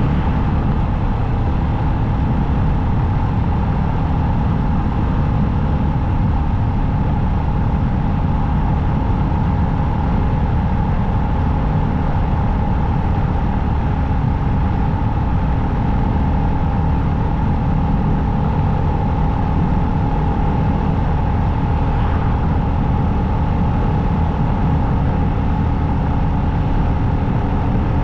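Motorcycle cruising at a steady speed on the highway: a constant engine drone under heavy wind and road noise, with no change in speed.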